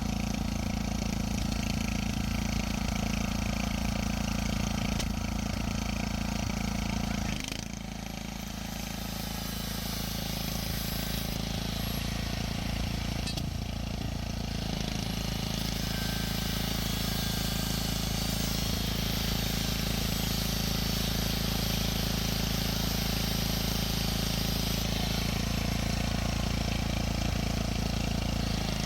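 An engine running steadily with a low hum. Its level drops suddenly about seven and a half seconds in, then builds back up over the next few seconds.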